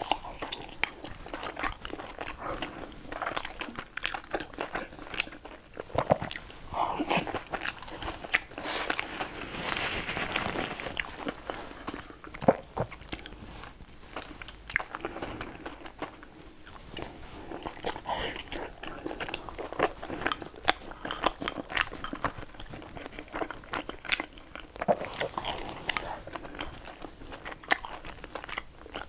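Close-miked eating sounds of a person biting and chewing food, with many short wet smacks and clicks, denser for a couple of seconds around the middle.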